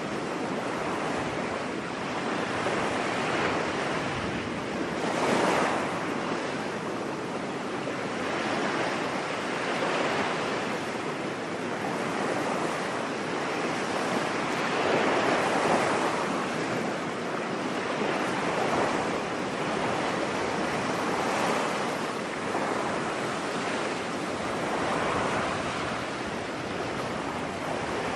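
Ocean surf on a beach: a continuous wash of waves that swells and recedes every few seconds as they break.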